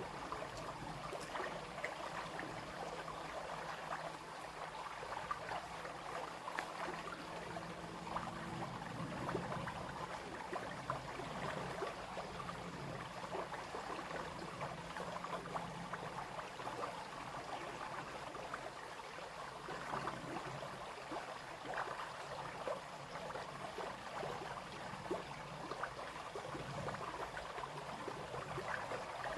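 Babbling brook: water trickling and splashing steadily.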